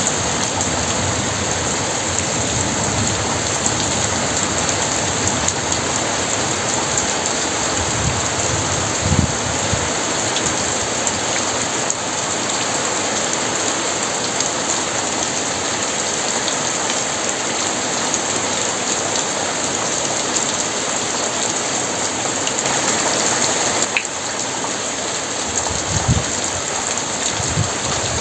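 Very heavy rain pouring steadily on surfaces, a dense even hiss, with a few brief low thumps about nine seconds in and again near the end.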